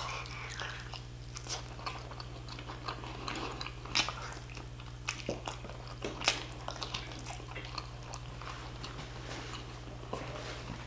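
Close-miked eating of braised oxtail: a bite into the meat, then chewing with scattered mouth clicks, a few of them louder, over a faint steady low hum.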